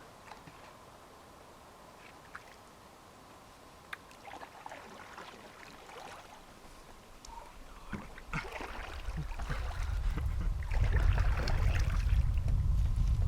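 Canoe paddling: quiet at first with a few faint knocks, then paddle strokes splashing in the water from about eight seconds in, with wind rumbling on the microphone in the last few seconds.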